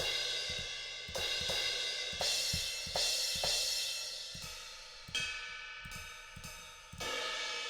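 Sampled cymbal from the BFD3 drum software, played from a drum controller, struck about once a second with each hit ringing and fading. The tone changes from hit to hit as different regions of the cymbal are played, with a clearer bell-like ring about five seconds in.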